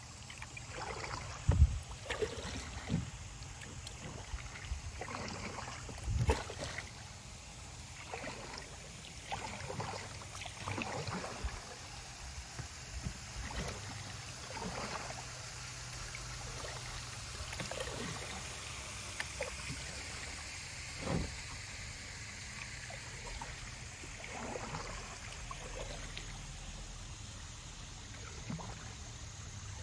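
Kayak working through a shallow, rocky creek: paddle strokes in the water with repeated knocks and scrapes of the paddle and hull against rocks over flowing creek water. The loudest knocks come about a second and a half in, around six seconds in, and again about twenty seconds in.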